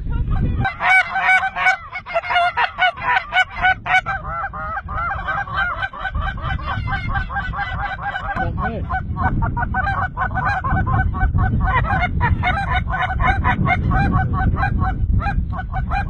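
A large flock of geese calling, many honks overlapping in a continuous din, with a low rumble underneath from about halfway through.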